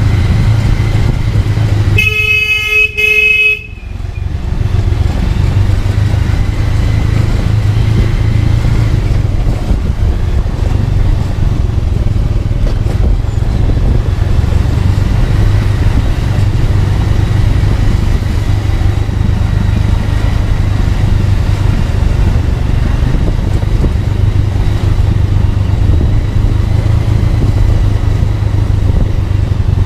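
A motorcycle riding along with a steady low engine and wind rumble. About two seconds in, a vehicle horn sounds once for about a second and a half.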